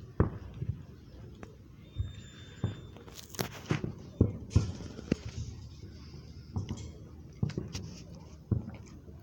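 Distant fireworks going off: a string of irregular low thumps and pops, with a sharper crackling pop a little over three seconds in.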